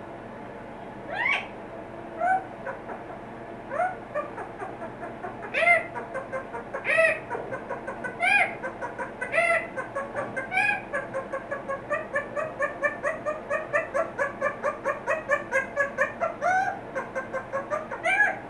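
A parrot making a series of pitched, arching calls, spaced about a second apart at first. About halfway through they turn into a quicker run of short repeated calls, roughly three a second.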